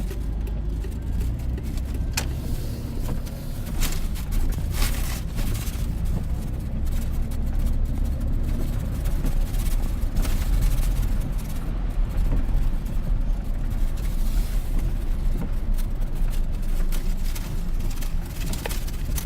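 Cab interior of a 2001 GMC Sierra pickup driving on wet roads: a steady low rumble of engine and tyres, with scattered clicks and short hissing swishes over it.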